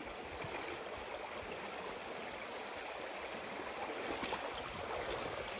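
Steady rushing of a jungle stream flowing over rocks.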